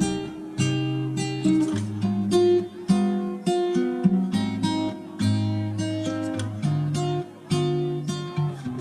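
Acoustic guitar music: plucked and strummed notes and chords, each ringing and fading before the next.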